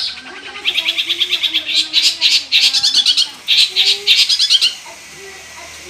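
Long-tailed shrike (cendet) singing rapid runs of high, evenly repeated chattering notes in several bursts with short pauses between them.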